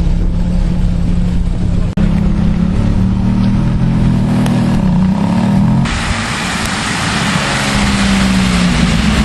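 Ferrari F430's V8 engine running steadily, its pitch shifting a little, with a momentary break about two seconds in. About six seconds in, a steady hiss joins the engine sound.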